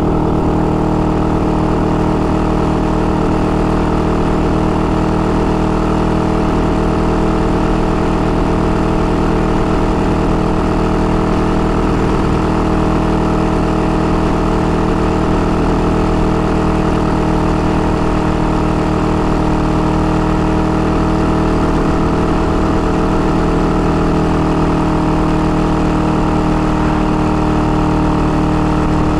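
IZh-49 motorcycle's 350 cc single-cylinder two-stroke engine running at a steady, even pace on the road. The engine is being run in after a rebuild with a rebored cylinder and 75 mm piston, so it is held to moderate speed.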